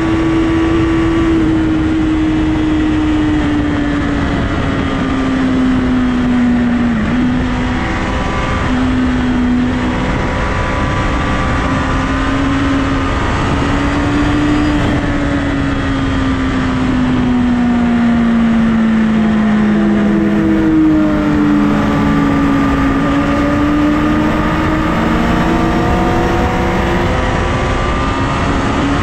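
Honda CBR1000RR's inline-four engine running at highway speed, recorded from the bike with wind noise. The engine note sinks slowly, breaks upward about two-thirds of the way through, and climbs again near the end.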